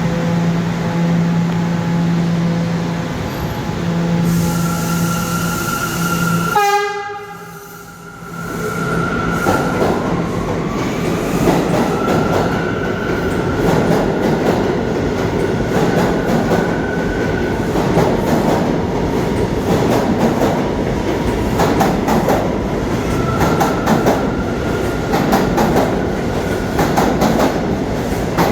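New York City subway train at the platform: a steady hum at first, then after a brief lull a loud continuous rumble with a faint rising motor whine and wheels clattering over the rail joints.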